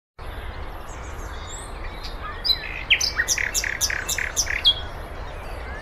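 European goldfinch singing: quick high twittering notes and glides, with a fast run of sharp repeated notes in the middle, over a steady low hum. It starts and cuts off abruptly.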